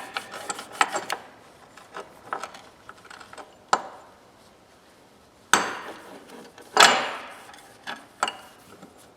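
Steel adjustable wrenches being handled and wiped down with wax on a rag. There are scattered light clinks and knocks of metal, and two louder sounds that start suddenly and fade, about five and a half and seven seconds in.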